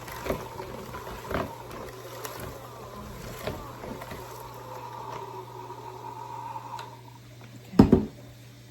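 Light clicks and taps of utensils working through cooked chicken breasts as they are shredded, over a faint steady hum, with a heavy knock near the end.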